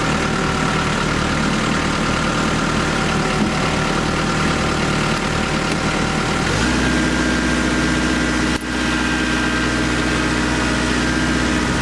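Diesel tractor engine running steadily while its loader bucket is worked under a stuck Jeep; its note changes about two-thirds of the way through.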